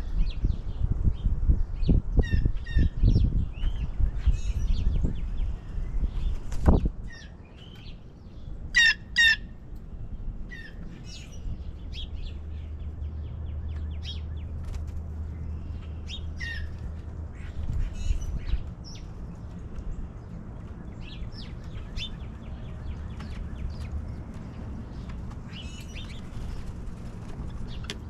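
Wild birds chirping and calling, with short high chirps throughout and a louder pair of calls about nine seconds in. Irregular low thuds during the first seven seconds.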